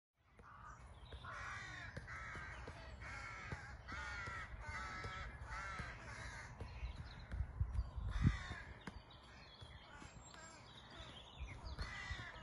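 A bird, likely a crow, giving a series of short harsh calls about once a second, thinning out after about six seconds, over a steady low wind rumble. A dull thump about eight seconds in.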